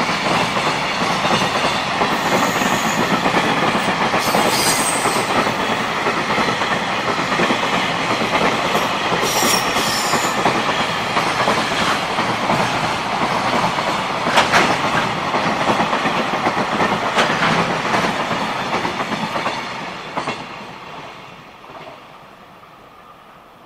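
JR Freight container train passing at speed: steady rumble and clatter of the container flat wagons' wheels on the rails, with a few sharp clicks and brief high squeals. The sound fades away over the last several seconds as the end of the train goes by.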